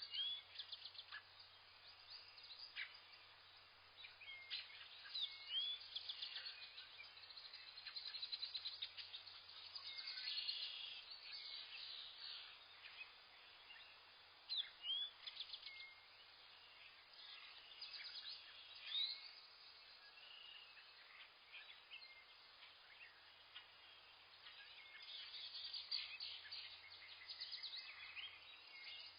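Several wild birds chirping and calling over one another: short rising whistles and fast trills, high-pitched, coming and going in overlapping bursts of song.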